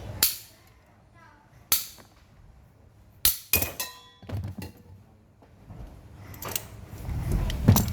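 Metal parts being knocked and clinked in repair work, about seven sharp strikes at uneven intervals. A quick cluster near the middle rings briefly, and the loudest, heaviest knock comes near the end.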